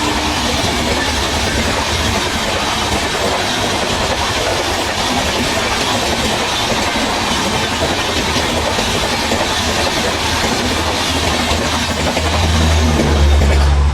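Express passenger train passing close at high speed on the electrified main line: a steady loud rush of wheels on rail and air, with rail-joint clatter, the low rumble swelling near the end.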